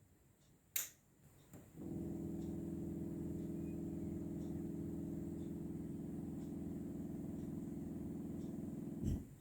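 Samsung inverter air conditioner making a steady low buzz for about seven seconds, after a sharp click about a second in; the buzz cuts off with a thump near the end. It is the buzzing at switch-on and switch-off that the owner takes for a defect of the 2021 models.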